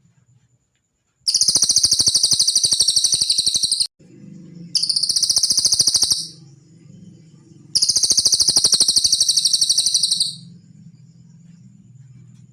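A cililin songbird's high, very fast trilling song in three bursts of about two seconds each, separated by short pauses. A faint low hum sounds in the gaps.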